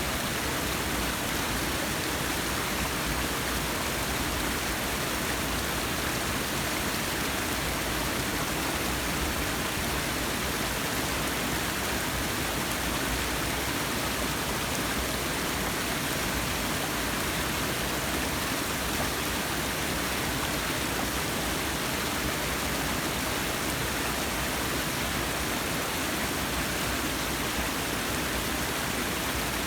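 Forest waterfall: water falling and running with a steady, even rush.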